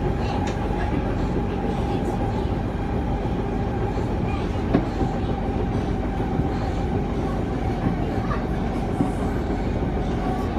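Kawasaki C151 metro train running at speed, heard from inside the carriage: steady rolling noise with an even whine and a few light clicks from the track.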